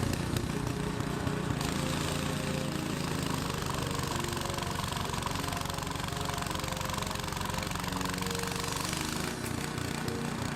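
Snowblower's small gasoline engine running steadily with rapid, even firing pulses; the sound cuts off suddenly near the end.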